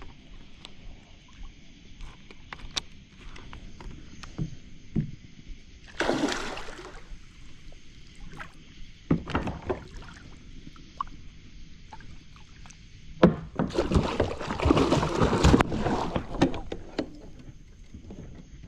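Big blue catfish thrashing and splashing at the side of a kayak as it is brought in, with small knocks against the hull throughout. A short splash comes about six seconds in, then a sharp knock, a sinker hitting the kayak, and a longer, louder bout of splashing near two-thirds through that drenches the angler.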